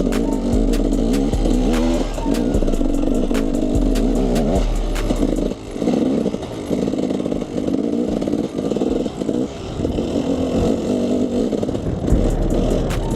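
KTM 300 EXC two-stroke enduro dirt bike engine running under load while riding, its pitch rising and falling with the throttle. Frequent sharp knocks come through over the rough ground.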